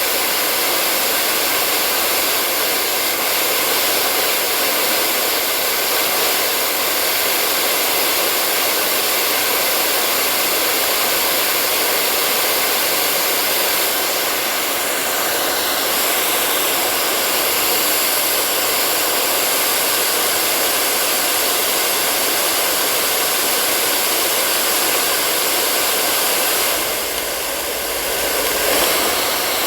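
Hair dryer blowing steadily with an even, airy hiss and a faint motor hum. Near the end the sound dips briefly and a low rumble comes in.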